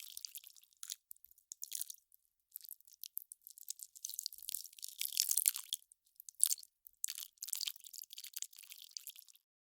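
Ice crackling and popping as it melts: irregular runs of fine, high crackles with short silent gaps between them.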